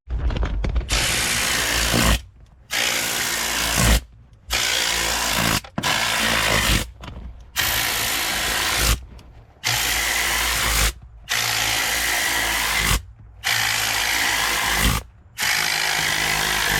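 A power tool running in repeated bursts of one to two seconds, with short pauses between them; a steady, hissing sound.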